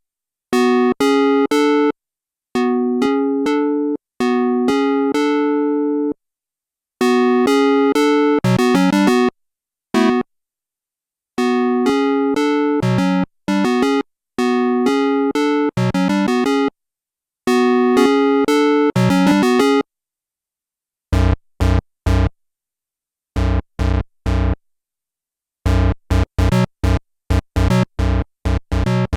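Sequential analog polyphonic synthesizer playing chords and short phrases in bursts with silent gaps between, some ending in a falling sweep. About two-thirds of the way in it changes to short, rapid staccato notes with a heavy low end.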